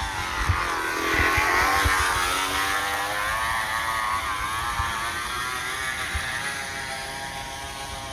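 Small engine of a homemade motorized bicycle revving up about a second in, then running on with its pitch slowly falling as it grows fainter.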